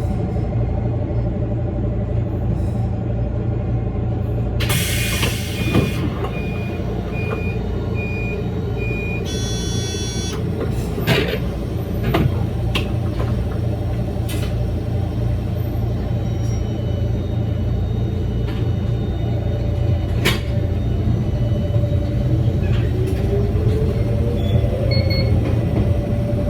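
Electric train running with a steady low rumble. About five seconds in comes a short hiss of air, followed by a run of short, evenly spaced beeps and then a chime. Near the end a motor whine rises slowly in pitch as the train picks up speed.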